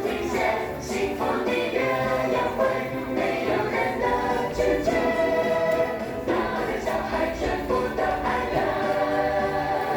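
Song from a children's musical: several voices singing together over instrumental music.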